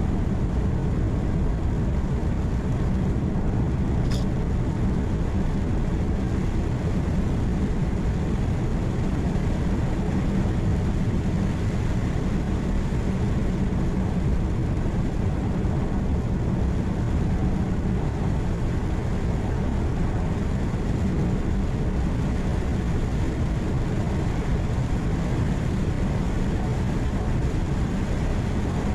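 Truck engine hum and road noise heard from inside the cab, steady and low-heavy, with one brief high-pitched sound about four seconds in.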